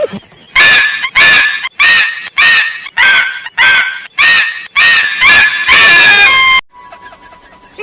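A rapid series of loud, harsh squawking cries, about nine of them, each bending up and down in pitch, the last held for about a second and cut off suddenly.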